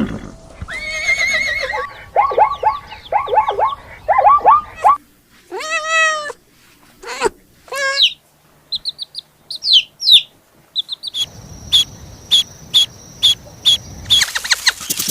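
A succession of different animal calls: a run of short pitched calls, some rising and falling, then high-pitched chirps, then a rapid, evenly spaced series of clicks near the end.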